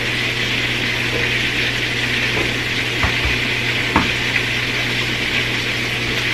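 Chicken breasts frying in hot oil in a pan, a steady sizzle, with a few short knocks about three and four seconds in.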